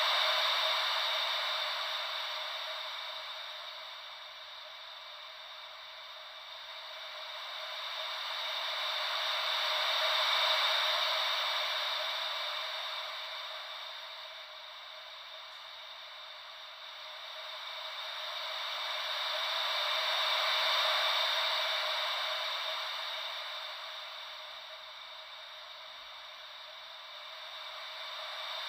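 Ocean-wave white noise: a soft, even hiss that swells and falls back about every ten seconds, three slow swells in all, like waves washing in and out.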